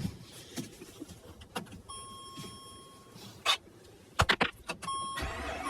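A car's steady electronic warning beep sounds for about a second, then a cluster of sharp clicks as the ignition is worked. The beep comes back and a low hum starts near the end, in the lead-up to a cold start.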